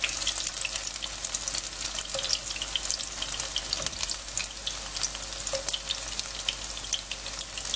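Pumpkin fritters frying in vegetable oil in a pan: a steady sizzle with many small crackles and pops.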